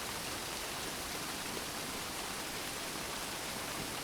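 Steady gentle rain, an even hiss with no distinct drops or thunder.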